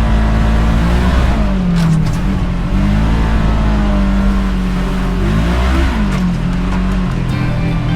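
Side-by-side UTV engine running under way, its pitch dropping and rising again twice as the throttle eases off and picks back up.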